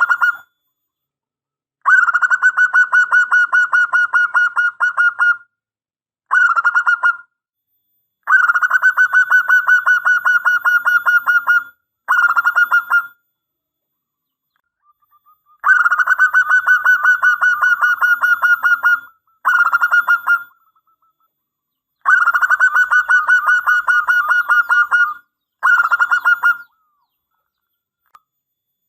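Zebra dove (perkutut) cooing in long, rapid staccato phrases, each long phrase followed by a short one, four times over with short pauses between.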